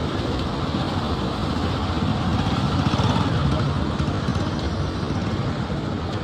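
Road traffic noise: a motor vehicle passing, swelling to its loudest about three seconds in over a steady low rumble.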